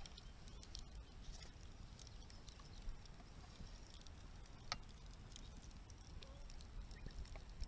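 Faint crackling of a wood campfire: scattered small pops and ticks, with a sharper pop about three seconds in and another just before five seconds, over a low rumble.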